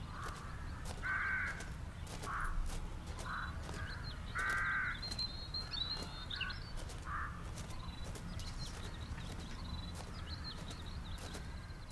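Birds calling in open bush: a series of about seven harsh, caw-like calls over the first seven seconds, two of them louder, with faint high chirps of smaller birds over a steady low rumble.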